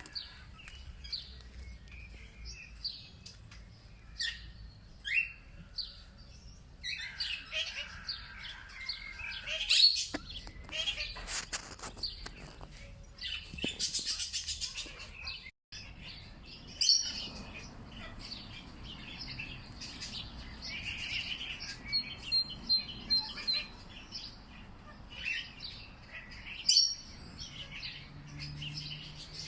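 Songbirds chirping and calling outdoors, many short overlapping chirps and twitters, with a brief dropout about halfway through.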